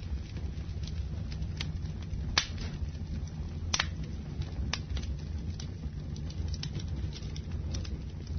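Wood fire burning in a fireplace, with a steady low rumble of flames and irregular sharp crackles and pops. Two louder pops come in the first half.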